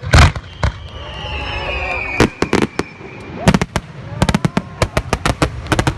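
Fireworks going off: a loud bang at the start, a whistle falling slowly in pitch, then a rapid series of sharp crackling pops through the second half.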